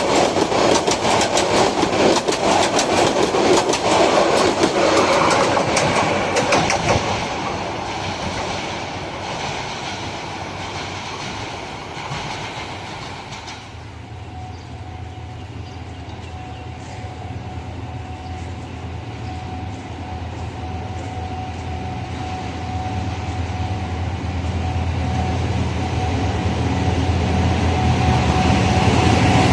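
A passing train's wheels clatter over rail joints, loud at first and fading away by about halfway. Then a low rumble with a thin steady whine grows steadily louder as another train approaches.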